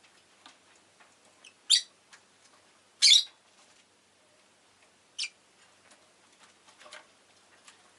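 Rosy-faced lovebird giving three short, shrill calls, the second, about three seconds in, the loudest and longest, with faint small clicks in between.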